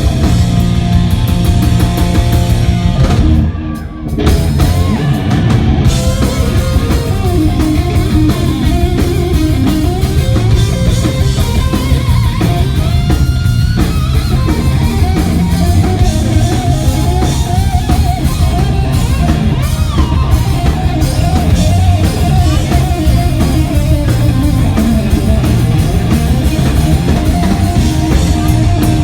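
Live hard rock band playing loudly: electric guitar over a drum kit. The level drops briefly about three to four seconds in, then the band carries on.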